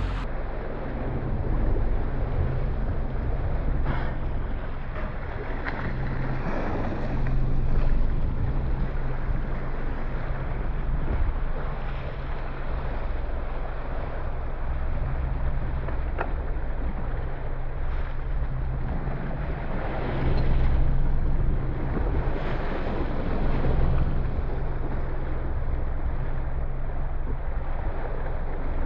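Motor boat's engine running at idle with a steady low hum, under wind on the microphone and the wash of water around the hull, which swells a few times.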